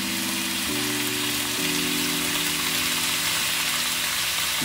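Vegetables frying in a hot wok, a steady sizzling hiss, under background music of held chords that change every second or so.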